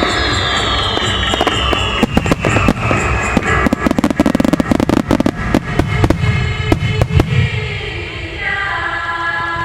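Starmine fireworks going off in quick succession, a dense barrage of bangs and crackles that thins out after about seven seconds. Music plays alongside and holds a steady chord near the end.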